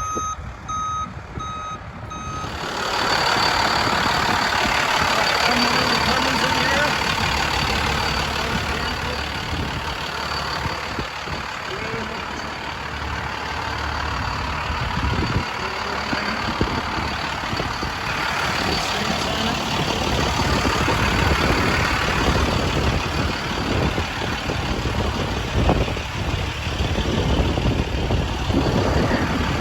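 A truck's reversing alarm beeping in an even on-off rhythm for the first couple of seconds, then a loud, steady rushing noise over a low engine rumble.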